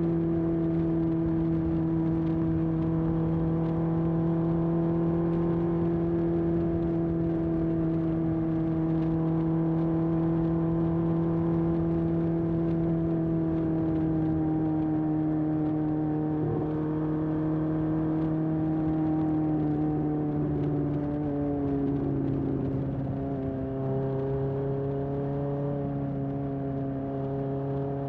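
1981 Honda CB750F's air-cooled inline-four running under way through a period Yoshimura exhaust, a steady exhaust note whose pitch slowly sinks as the bike eases off, dropping a step lower about three-quarters of the way through.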